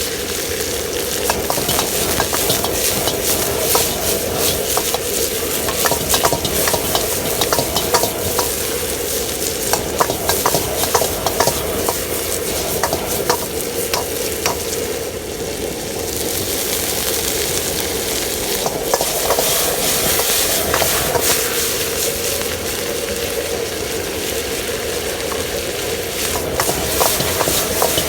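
Food stir-frying in hot oil in a wok, with a steady sizzle and frequent short clicks and scrapes of a utensil against the pan.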